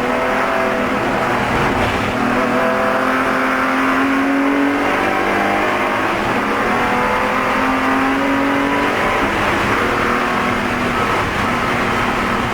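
Spec E46 BMW race car's straight-six engine running hard, heard from inside the car, its pitch climbing under acceleration and dropping back several times over steady road and wind noise.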